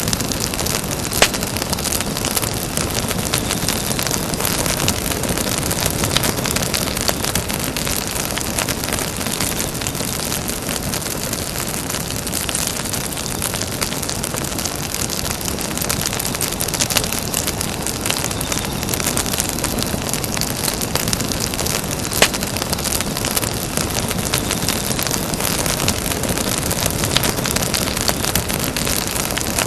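Campfire burning with a steady rush and scattered sharp pops and crackles from the wood; two louder snaps, one about a second in and one about twenty-two seconds in.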